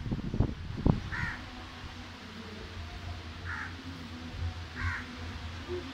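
Three short, harsh bird calls, a second or two apart, over a steady low hum. A few thumps in the first second are the loudest sounds.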